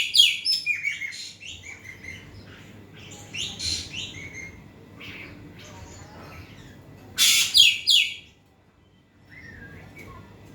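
Ekek keling bird singing in loud, sharp bursts of high chirps, with softer calls between the bursts and a loud run of calls a few seconds before the end.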